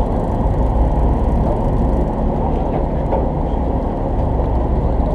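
A fishing party boat's engine running steadily, a constant low drone that neither rises nor falls.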